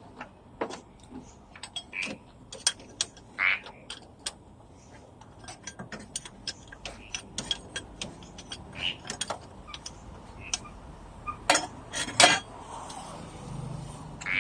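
Metal hand tools clicking and clinking irregularly against metal while the exhaust manifold is worked loose, with two louder metallic knocks near the end.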